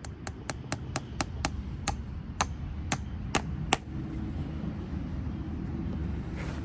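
Farrier's hammer striking metal with sharp, ringing blows: about a dozen quick taps at roughly four a second, slowing to spaced strikes that stop about four seconds in.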